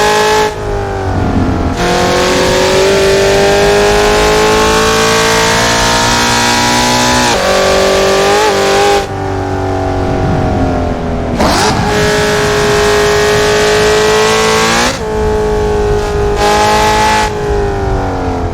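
Car engine under hard throttle at high revs, lapping a circuit. The engine note drops abruptly several times as the throttle is lifted for corners, with quick rev blips on the downshifts.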